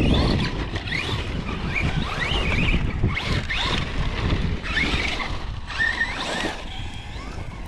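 Hobby-grade RC truck's electric motor whining in short bursts, its pitch rising and falling again and again as the throttle is worked over bumpy dirt, over a steady low rumbling noise.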